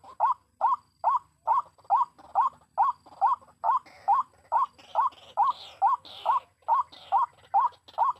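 White-breasted waterhen's 'kruok' call, a steady run of short rising notes about two a second, the call used to lure the birds into the trap. Fainter higher chirping joins in during the middle of the stretch.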